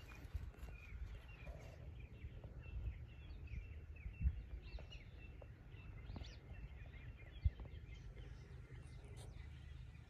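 Small birds chirping in short, repeated calls over a steady low rumble, with two brief thumps, one near the middle and one about three-quarters of the way through.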